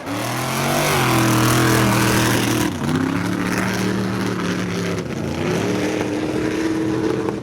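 Mud-bogging truck's engine revving up hard and held at high revs, easing off briefly about three seconds in, then climbing and holding high again.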